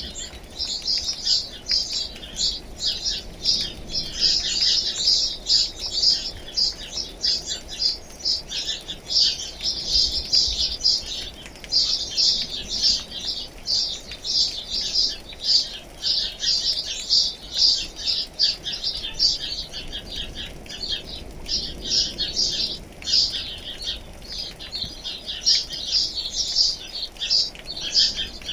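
Birds chirping continuously, a dense run of quick, high chirps with hardly a gap, over a faint steady hiss of rain.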